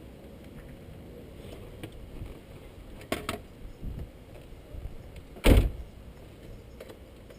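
Turbocharged engine with an open dump idling as a steady low rumble, broken by a few light clicks about three seconds in and one short, loud thump about five and a half seconds in.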